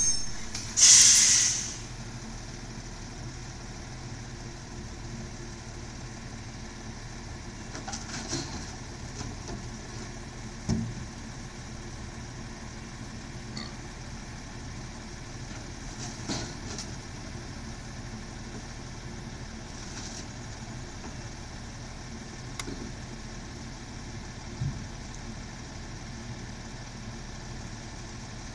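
Recycling truck's diesel engine idling steadily, with a loud burst of air-brake hiss about a second in and a few scattered clanks and knocks.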